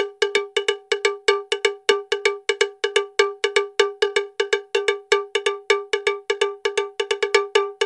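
Cowbell-like metallic percussion struck in a fast, even rhythm, about six strikes a second, all on one steady pitch.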